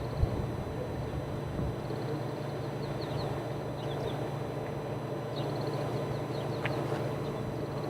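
Small birds chirping in short, high, falling notes and quick trills over a steady low hum, with one soft thump just after the start.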